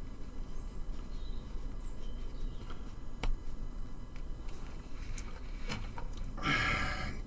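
Small clicks and taps of hands driving tiny screws into plastic model parts with a small screwdriver: one sharp click about three seconds in, a few light ticks later, and a brief rustling scrape near the end.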